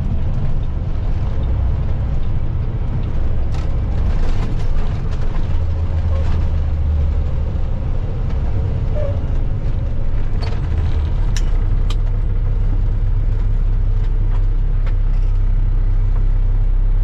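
Semi truck's diesel engine and road noise heard inside the cab while driving: a steady low drone, with a few short ticks and clicks.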